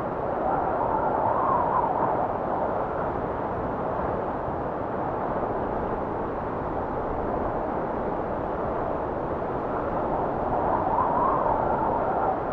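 Blizzard wind blowing steadily. It swells into a louder, higher whistling gust about a second in and again near the end.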